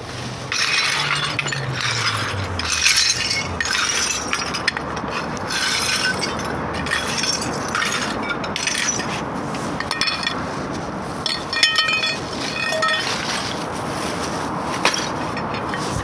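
Stones and rubble scraping and clinking as fill is shovelled and dropped into a street pothole, in irregular crunching strokes. A brief metallic ringing clatter comes about eleven to thirteen seconds in.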